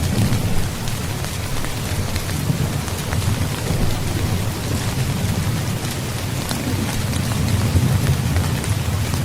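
Steady heavy rain pattering, with scattered sharp drop ticks, over a low, rolling thunder rumble that swells and fades.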